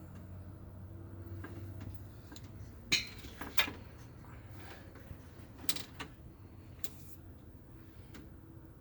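Scattered metallic creaks and clicks of heavy mechanical work on a truck engine, with a few sharper clanks about three and six seconds in, over a low steady hum.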